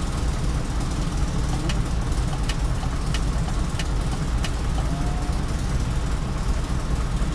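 Mercedes truck's six-cylinder engine idling steadily, with a few faint ticks about two-thirds of a second apart. Its number 4 cylinder is not firing, which the diagnosis puts down to a failed injector.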